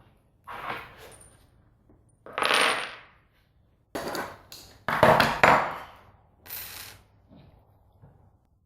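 Metal parts clinking and clattering as they are handled and set down, in about six separate knocks with a ringing tail; the loudest cluster comes about five seconds in.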